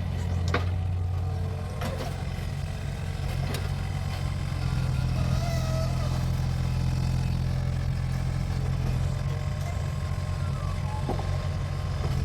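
Mini excavator's diesel engine running steadily under work, with a few sharp metallic clanks from the machine's bucket and arm.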